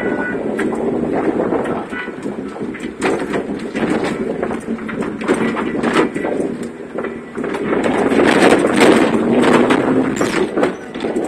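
Four-wheel-drive vehicle driving over rough ground, with continuous rattling and knocking over the running noise.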